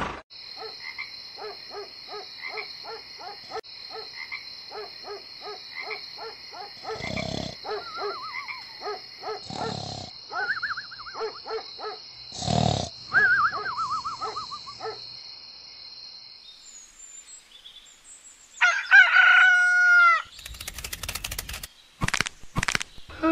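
Frogs croaking in a steady rhythm, about twice a second, over a constant high insect buzz, with a few warbling bird calls. Near the end comes one loud, falling animal call.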